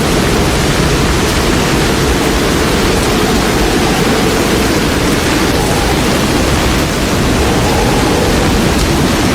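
Loud, steady rush of floodwater, an even roar with no breaks.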